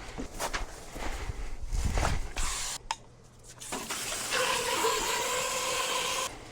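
A few knocks and clatters, then water running steadily at the sink for about two seconds, stopping shortly before the end.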